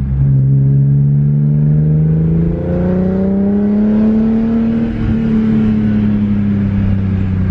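BMW E46 M3's S54 straight-six heard from inside the cabin while driving. Its pitch climbs steadily as the car accelerates for about four seconds, then eases off slightly and holds.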